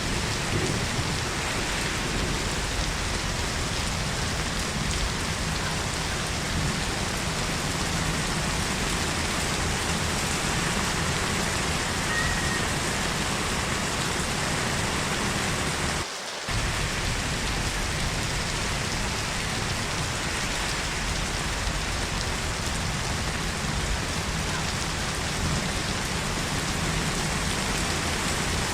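Heavy rain falling steadily, with one brief drop-out about halfway through.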